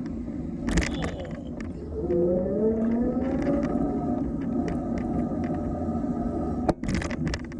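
Schwinn Hurricane e-bike's electric motor whining, its pitch rising over about two seconds as the bike speeds up and then holding steady, over a low rumble of wind and tyres.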